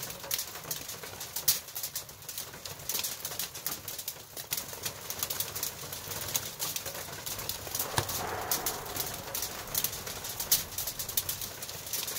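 Freezing rain and sleet ticking and pattering on the shed's roof: dense, irregular, sharp little clicks that keep on steadily.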